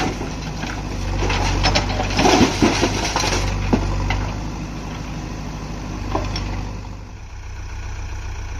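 Heavy diesel engine running steadily, with a louder stretch of clattering and sharp knocks from about one to four seconds in. The engine drops quieter after about seven seconds.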